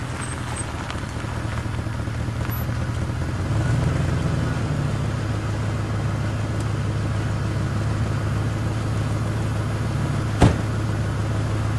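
A Ford Crown Victoria police car's V8 running at a steady idle as the car rolls to a stop. Near the end, one sharp bang from a car door slamming shut.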